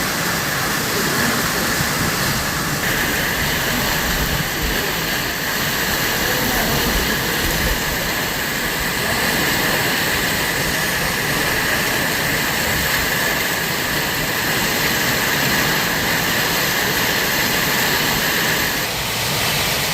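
Heavy rain pouring down in a steady rush.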